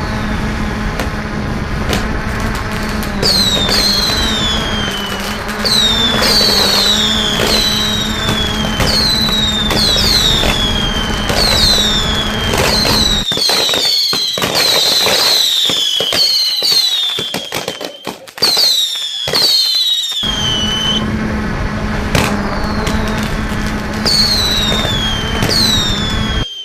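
Fireworks going off in quick succession: many whistles, each falling in pitch, mixed with sharp cracks and pops. A steady low hum runs underneath and drops out for several seconds in the middle, leaving the cracks on their own.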